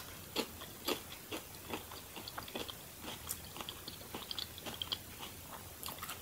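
A person chewing a mouthful of crisp corn tortilla close to the microphone, with small crunches about twice a second.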